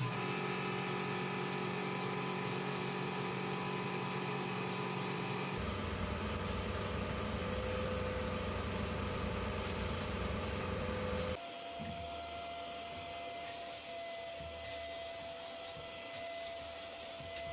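Small power tool running steadily while abrading rust and dirt off a metal lamp. The motor pitch and sound change abruptly twice, about five and a half seconds in and again about eleven seconds in, and the last part is quieter.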